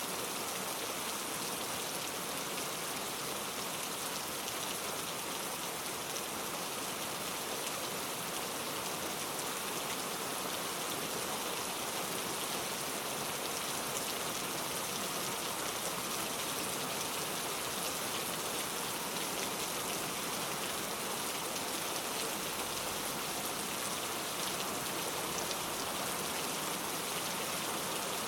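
Steady heavy rain, a constant hiss of many drops falling on surfaces with no thunder.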